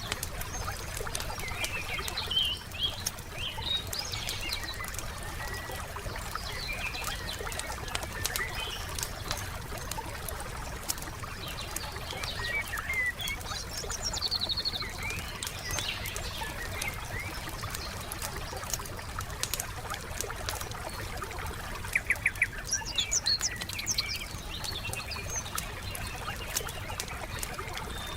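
Wood fire crackling with sharp pops over a steady hiss, while songbirds chirp and call. The loudest sound is a fast, rattling bird call about three-quarters of the way through.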